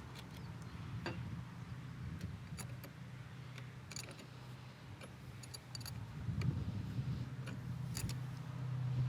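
Scattered metallic clicks and clinks of hand tools on the car's negative battery terminal as it is refastened, over a steady low hum that grows louder in the second half.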